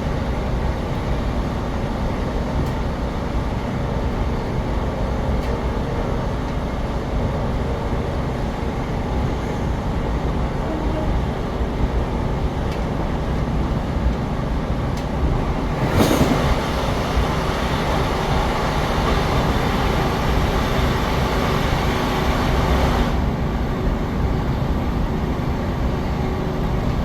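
A train running on the rails, with a steady rumble and a sharp knock about two-thirds of the way through.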